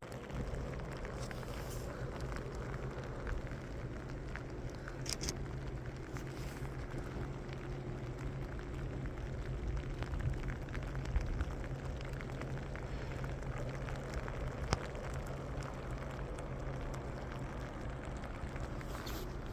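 Graupel, small ice pellets, falling and ticking on surfaces as a steady hiss of many tiny clicks, over a low rumble.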